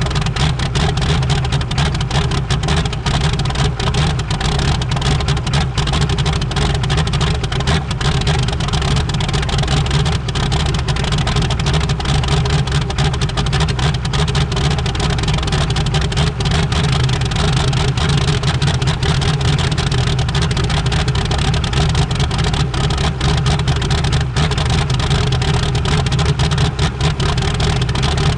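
GM 6.5-litre V8 turbodiesel in a race truck running steadily at a constant speed, warming up after a cold start in winter.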